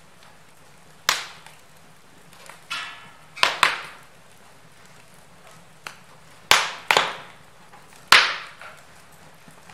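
Wood fire in a fireplace crackling, with a run of sharp loud pops and snaps from the burning logs, several in quick pairs, over a faint steady hiss of the flames.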